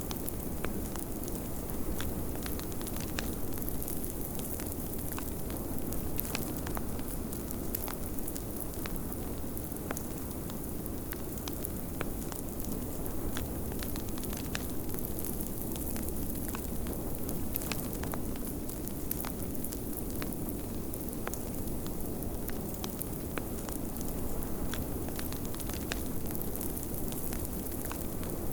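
Wood fire crackling in a fireplace, with frequent sharp pops scattered irregularly, over a steady low rush of blizzard wind.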